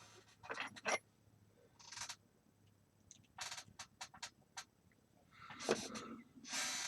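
Faint handling sounds at a workbench: scattered clicks and short scrapes, with a quick run of sharp clicks past the middle and a longer scrape near the end.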